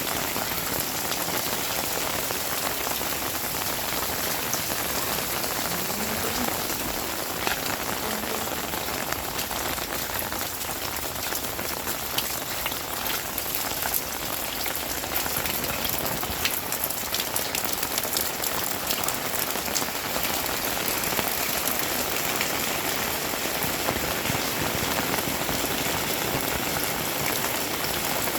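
Heavy rain falling steadily, a dense patter of many drops striking surfaces.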